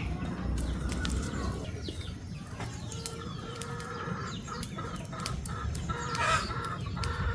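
Chickens clucking, with a burst of louder calls about six seconds in, and scattered sharp clicks.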